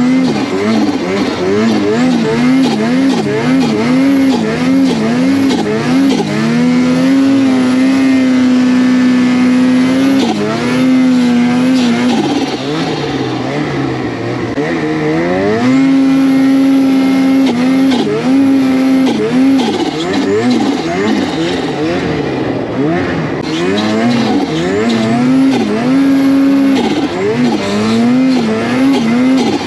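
Snowmobile engine revving in short throttle pulls. Its pitch wavers up and down and at times is held high and steady for a few seconds.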